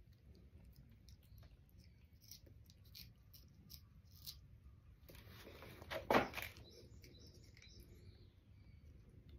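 Faint, scattered bird chirps from outside, with a short, louder noise about six seconds in.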